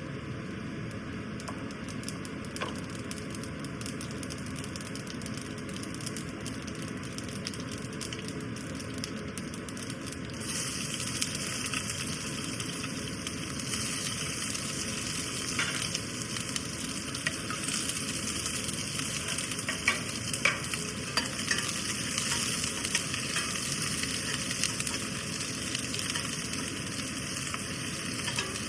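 Food frying in hot oil in a pan, with stirring scrapes and clicks. The sizzle suddenly gets much louder and hissier about a third of the way in.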